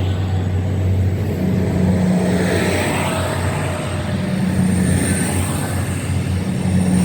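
Class 222 Meridian diesel multiple unit's underfloor diesel engines running with a steady low drone.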